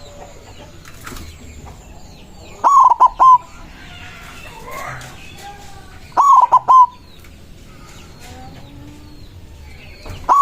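Zebra dove (perkutut) singing its cooing phrase: a longer note followed by two quick short notes. The phrase repeats about every three and a half seconds, with two full phrases and the start of a third at the very end. Fainter chirps of other birds are heard between phrases.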